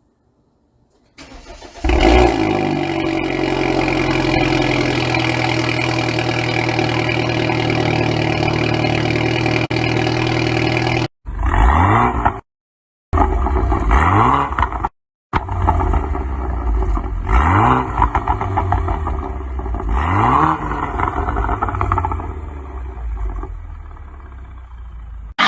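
BMW N20 2.0-litre turbocharged four-cylinder, breathing through an M Performance exhaust with the resonator deleted, cold-starting: cranking about a second in, catching, and settling into a steady high cold idle. From about halfway through it is blipped several times, each rev rising quickly and falling back, with two short silent breaks, and it idles lower near the end.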